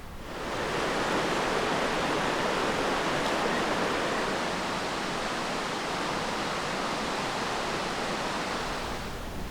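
Steady rushing noise, fading in about half a second in and fading out near the end.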